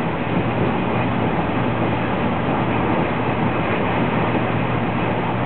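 Passenger train running at speed, heard from inside the carriage as a steady noise of wheels and air with no breaks.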